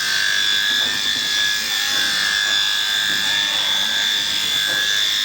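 Electric sheep-shearing handpiece running, a steady high whine that holds constant throughout.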